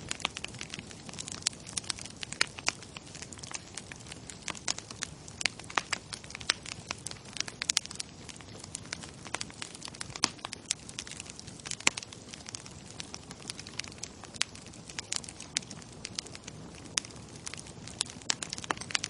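Bonfire crackling: wood burning with frequent, irregular sharp pops and snaps over a steady low hiss of flame.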